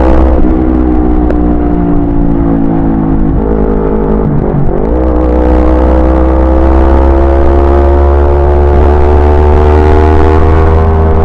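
Yamaha YZF-R25's 250 cc parallel-twin engine running under way on the road. Its pitch drops just after the start and dips sharply about four and a half seconds in, then climbs slowly as the bike accelerates.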